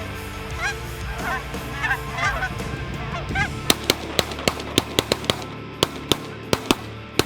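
Goose honks for the first few seconds, then a rapid volley of about a dozen shotgun blasts from several hunters firing at once.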